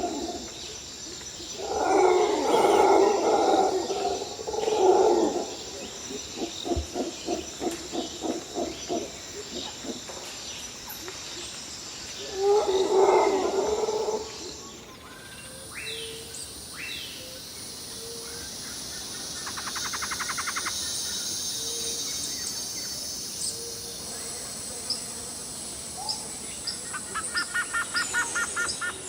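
Birds calling in several loud bursts and pulsed trains over a steady high insect drone, with no voices.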